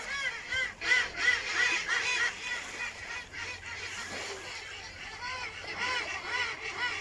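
A group of ducks calling: a rapid run of overlapping quacks for about the first two seconds, then scattered calls.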